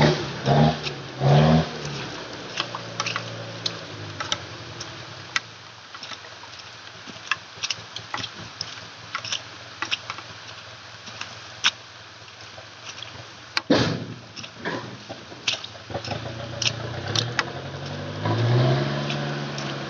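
Dump truck engine revved in a few short surges, then dropping back to a low run while scattered clicks and knocks sound, with one loud knock about 14 seconds in. The engine revs up again near the end.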